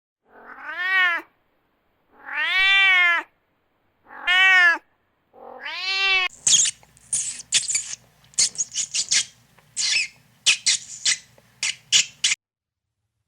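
Domestic cat meowing four times, each meow rising then falling in pitch. It is followed by a run of short, sharp, noisy bursts lasting about six seconds.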